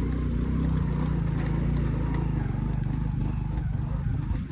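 Motorbike engine running steadily while riding, a low, even drone with a rapid flutter.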